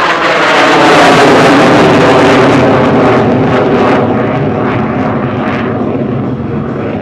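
KAI T-50 Golden Eagle's single F404 turbofan passing by in jet noise, with a whine dropping in pitch at the start, loudest about a second in, then slowly fading.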